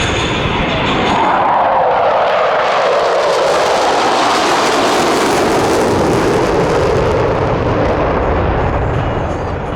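Aircraft flying past at an air show: a loud, steady rushing noise whose pitch slides down as it goes by.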